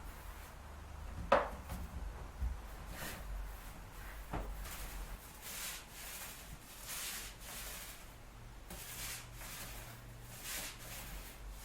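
Rubbing strokes across a surface during renovation work, a dry rustling scrub repeated one or two times a second. A sharp click about a second in is the loudest sound, with two softer clicks a few seconds later.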